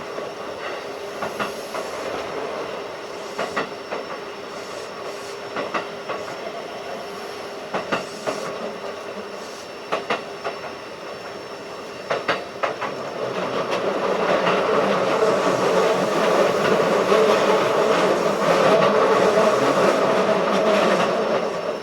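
Keikyu 1500 series field-chopper electric train running at speed, its wheels clicking over rail joints in pairs every few seconds over a steady hum. About 13 seconds in the running noise grows clearly louder and stays up.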